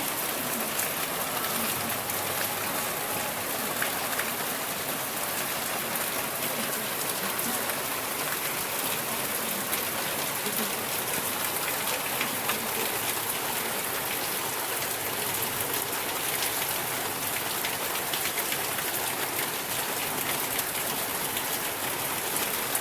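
Rain falling steadily: an even hiss with many small drop ticks, unchanging in level.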